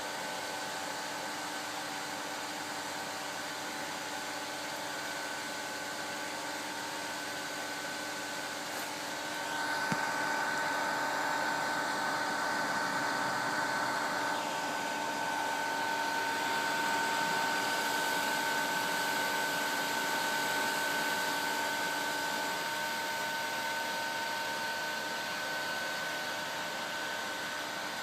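Fans and blower of a BIRD 8888 BGA rework station running steadily after the heating profile is stopped, cooling the board. About ten seconds in the whir grows louder and a higher steady whine joins it, as a fan comes up to speed.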